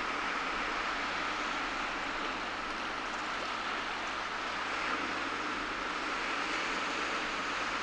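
Ocean surf breaking on a beach, a steady continuous wash of waves with no single crash standing out.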